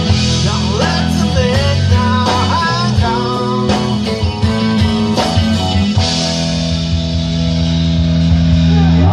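Live rock band playing an instrumental passage: electric guitar lead with bending notes over bass and drums, settling about six seconds in onto a long held chord that ends the song.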